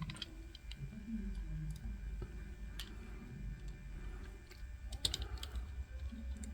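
Faint scattered clicks and taps from a small diecast toy truck being handled, over a low steady hum.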